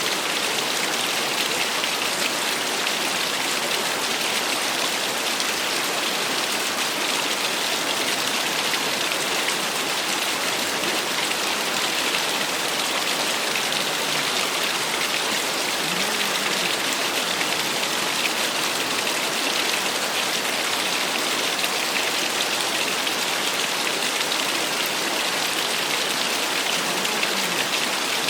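Small waterfall splashing steadily, a constant even hiss of falling water.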